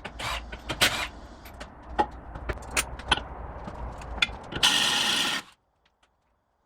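Metal hand tools at work: irregular sharp clicks and knocks, then a loud rasping burst of just under a second about four and a half seconds in, after which the sound cuts off suddenly.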